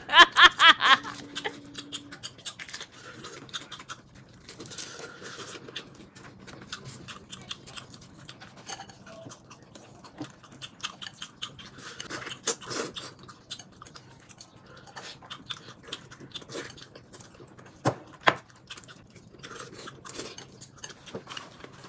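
Close-up eating sounds: chewing and lip-smacking of people eating meat and noodles, with scattered light clicks. A brief vocal sound opens it, and a sharper click comes about 18 seconds in.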